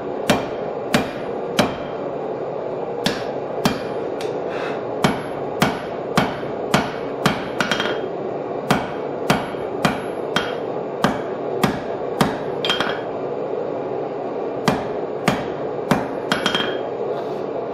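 Hand hammer striking heated steel held over a bottom fuller in the anvil's hardy hole, fullering a groove. The blows are sharp and ringing, a little under two a second, with two short pauses and a few quick light taps, over a steady background hum.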